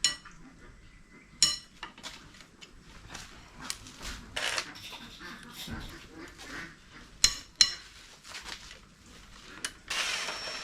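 Metal tools and engine parts clinking and clanking during an engine teardown: a series of sharp strikes, a few of them ringing, with smaller knocks and a brief scrape between them.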